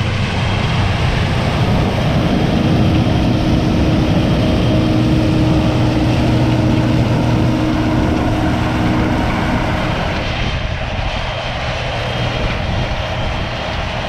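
Combine harvester running steadily under load, a dense machine drone with engine tones. The tones thin out and the level drops slightly after about ten seconds.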